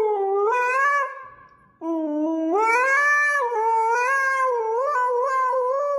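A pet animal's long, wavering howl: one drawn-out call fades about a second in, and after a short gap a second call rises in pitch and carries on, wavering up and down.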